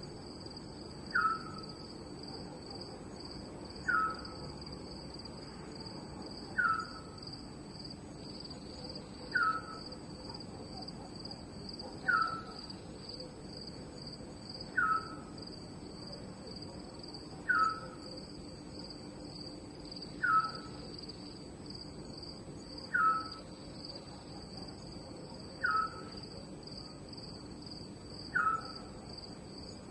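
Night ambience of crickets chirping steadily. Over them a short falling call from an unseen animal repeats evenly, about once every two and a half to three seconds, louder than the crickets.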